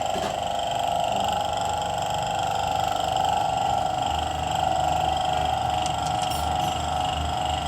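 A Toyota Corolla Altis engine running steadily, with a fast, even mechanical rhythm over a low rumble.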